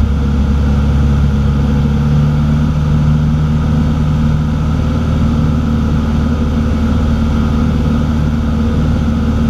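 Cessna 182's piston engine and propeller droning steadily, heard from inside the cockpit, with carburettor heat on.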